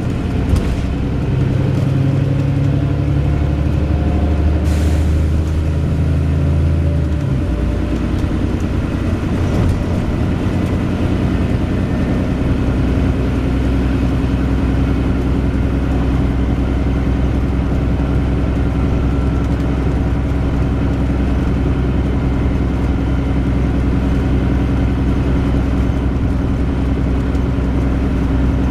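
Wright Pulsar Gemini 2 double-decker bus running with loud ticking noises. Its engine note changes about seven seconds in, then holds steady.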